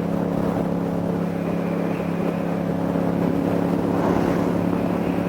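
Motorcycle engine running at a steady cruise with wind rushing over a helmet microphone; the engine note holds level, with no revving or gear changes.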